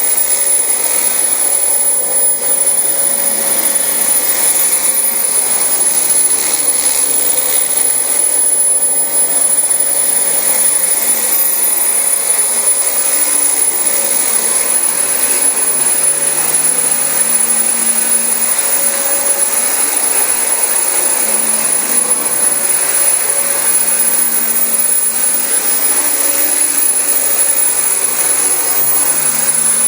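Dyson DC25 bagless upright vacuum cleaner running steadily while vacuuming carpet, its motor giving a constant high whine.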